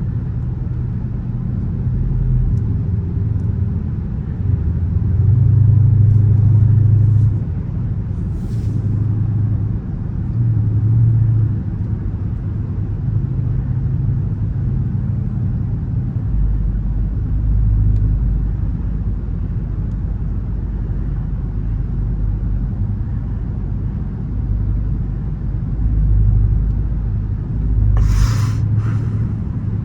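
Dodge Charger R/T's 5.7-litre HEMI V8 running on the road, heard from inside the cabin: a deep low rumble that swells and eases with the throttle, settling into a low drone about halfway through. A short hiss is heard near the end.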